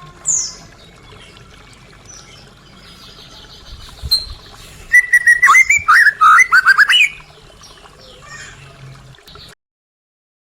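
White-rumped shama singing: a quick falling whistle just after the start, then a loud run of rapid, varied whistled notes between about five and seven seconds in. The recording cuts off shortly before the end.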